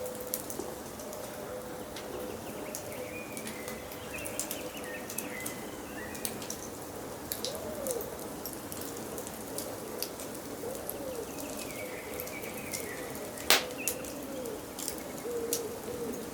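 Wood fire crackling and popping in a fireplace, with one loud pop near the end, over forest birdsong: higher chirping calls and low repeated cooing calls.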